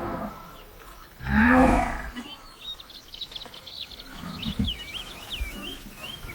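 One loud animal call with a clear pitch, lasting under a second, about a second in, followed by a run of high bird chirps.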